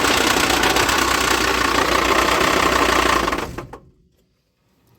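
Mercedes OM602 2.9-litre five-cylinder diesel running with a rapid, terrible knock, then shut off about three and a half seconds in. The owner suspects the flywheel has worked loose on its bolts.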